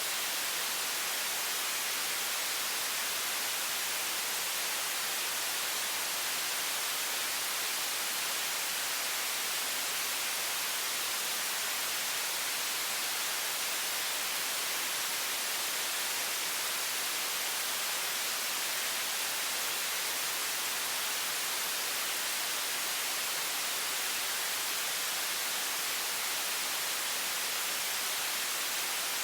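Water faucet running at high pressure: a steady, even hiss, strongest in the high range, that does not change.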